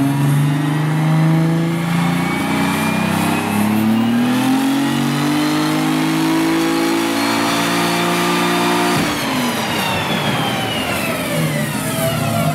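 Car engine on a chassis dyno pulling hard, its note rising steadily for about nine seconds, then breaking off suddenly and winding down in pitch: the engine letting go on the pull, with smoke pouring from the car.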